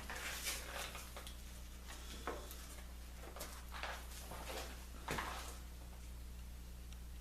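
Faint, scattered knocks and scrapes of wood and tools being handled, over a steady low electrical hum. The sharpest knock comes about five seconds in.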